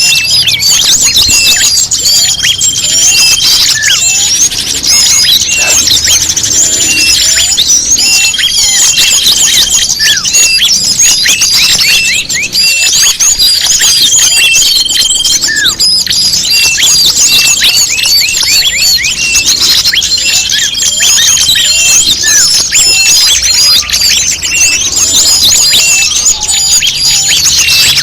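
Bird-lure recording of many small songbirds chirping and twittering rapidly and continuously at a high pitch. A held, steady whistle note about a second long comes back roughly every six seconds.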